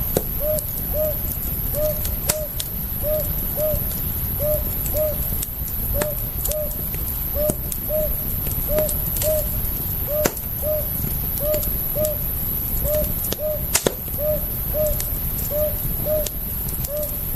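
Campfire crackling, with irregular sharp pops over a low rumble. Alongside it, short hooting notes come in pairs, roughly every second and a half throughout.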